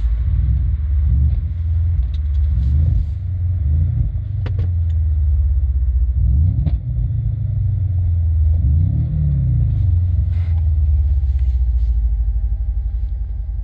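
Mercedes CLS 500's twin-turbo V8 running through a 76 mm cat-back sport exhaust with a deep rumble, its revs rising and falling about six times.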